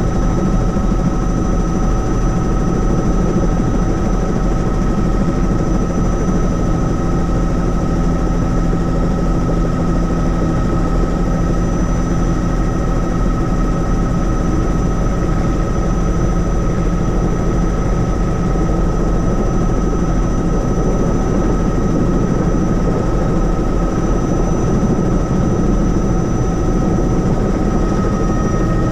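Helicopter running steadily in flight: a constant deep rotor and engine rumble with a steady high whine over it.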